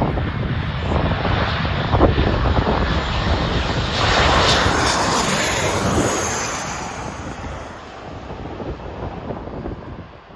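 Jet airliner's engines passing close by as it comes in to land, the noise swelling to its loudest about four to six seconds in and then fading away, with wind buffeting the microphone.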